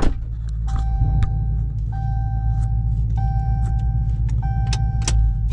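Dodge Charger R/T's 5.7 HEMI V8 with mid-mufflers deleted, idling with a steady deep exhaust rumble on a cold start after sitting three days. A high steady tone sounds over it in four back-to-back stretches of about a second each, with a few sharp clicks.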